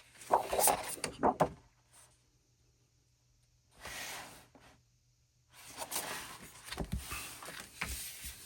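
Paper and plastic album inclusions being handled: crinkling and rustling in bursts, with a few sharp taps near the start and a longer stretch of rustling over the second half.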